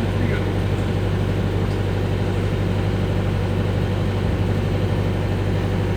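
Airport apron shuttle bus's engine running with a steady low hum and road noise, heard from inside the bus.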